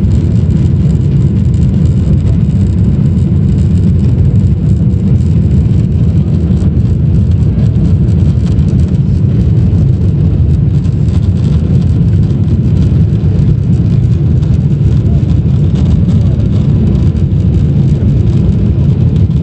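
Loud, steady low rumble inside the cabin of a Boeing 777-300 as the airliner decelerates on the runway after touchdown, spoilers raised: engine and roll-out noise.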